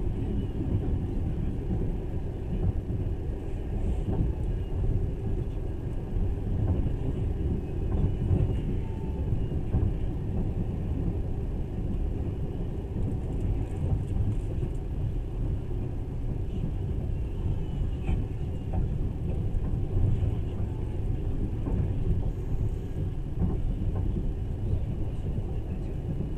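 Passenger train under way: a steady low rumble of the wheels on the rails and the rolling carriage, heard from inside the car.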